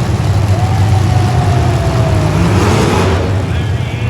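Car engines running loudly, one revving with a falling and then rising pitch over a steady low drone.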